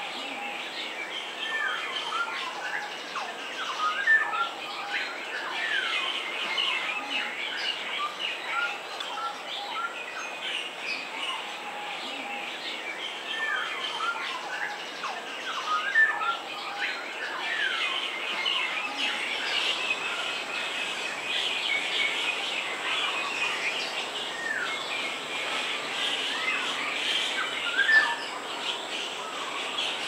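Several birds chirping and whistling at once, a busy chorus of short calls and falling whistles. The same louder run of calls comes back about every twelve seconds.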